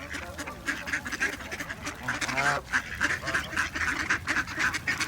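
A crowd of ducks quacking rapidly and continuously as they gather to be fed bread.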